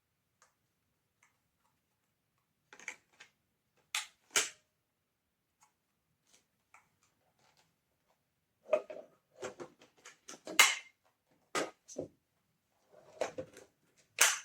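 Scattered sharp clicks and knocks, as of hard objects being handled: a few about three to four seconds in, then a denser run in the second half. There is no motor running.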